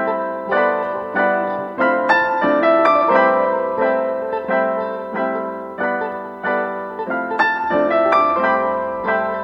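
Background piano music: gentle notes played one after another, each struck and left to fade.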